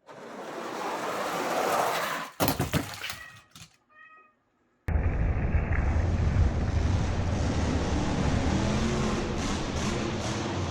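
Die-cast toy monster trucks rolling fast down a long plastic track, the rumble building for about two seconds, then a quick clatter of knocks as they hit the jump and crash. After a brief silence, a loud steady instrumental beat with heavy bass cuts in.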